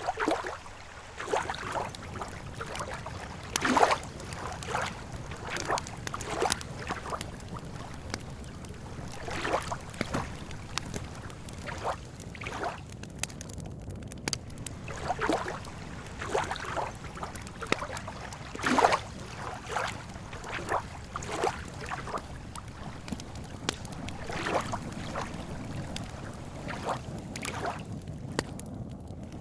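Small lake waves lapping against the shore in irregular splashes, one to three a second, over a steady low rumble.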